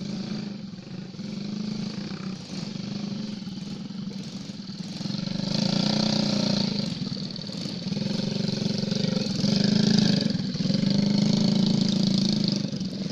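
Motocross bike engine running steadily, swelling louder three times in the second half.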